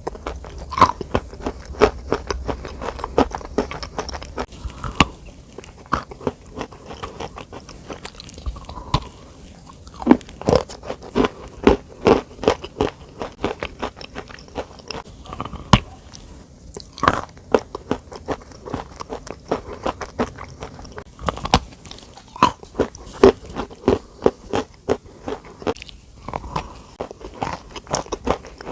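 Close-miked crunching: runs of sharp crackles, several a second, broken by short lulls.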